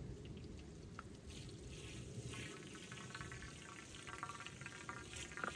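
Liquid being poured into a Hayward pool heater's plumbing while it is winterized, with a faint gurgling and bubbling from about two seconds in as the liquid goes in.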